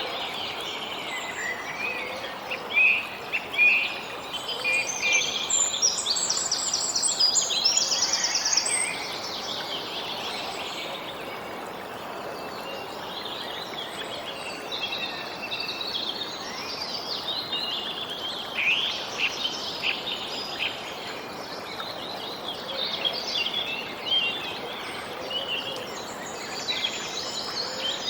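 Small songbirds chirping and twittering over a steady background hiss, with quick high trills and the busiest calling in the first third and again near the end.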